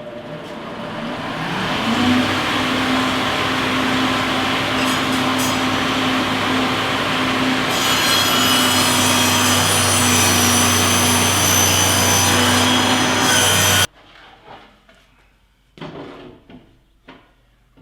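Electric saw starting up and running with a steady hum, then cutting a 30-degree angle across the corner of a 1x12 board, the cut adding a brighter hissing edge from about halfway in. The noise stops suddenly near the end, leaving a few faint knocks.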